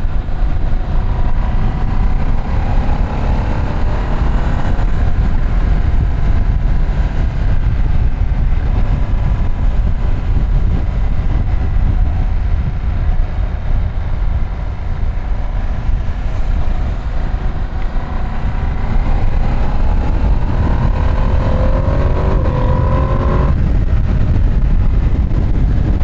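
Ducati Streetfighter V2 S's twin-cylinder engine under way on the road, its note rising as it accelerates about a second in and again near the end, where it cuts off sharply as the throttle closes or a gear is changed. A heavy low rumble runs underneath throughout.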